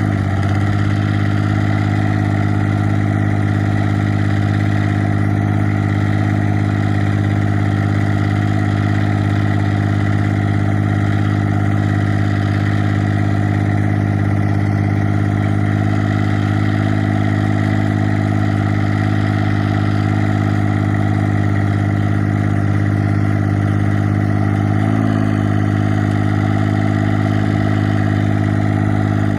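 1984 John Deere 430 garden tractor's three-cylinder Yanmar diesel running at a steady speed through a straight-piped exhaust, loud and even.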